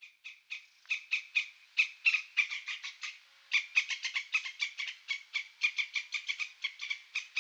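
An animal's rapid series of short, high chirping calls, sparse at first and then coming quicker, about five or six a second, from about three and a half seconds in.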